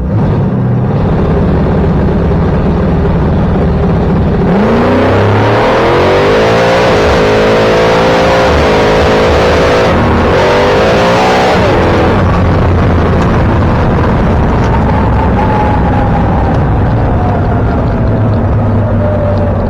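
Drag race car launching down the strip under full throttle: the engine revs climb in steps, shift by shift, from about four seconds in, then a long falling tone follows as it goes off down the track.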